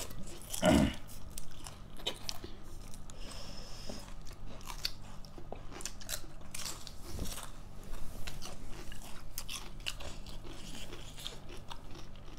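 Mouth sounds of someone eating vegetable dishes: chewing and crunching, with many small crisp clicks and smacks. There is a brief falling vocal sound just under a second in.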